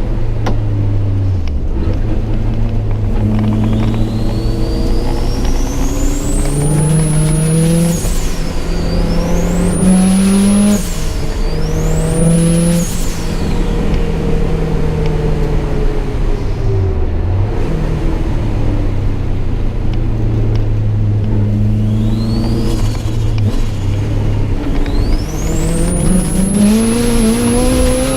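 Subaru Impreza GC8's flat-four engine driven hard on track, heard close up: the revs climb through several quick upshifts, fall away under braking, then climb again near the end. A high whine rises and drops with the revs at each shift.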